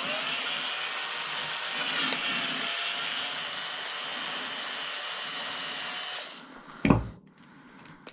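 A small power tool runs steadily for about six seconds, then cuts off; a single knock follows about a second later.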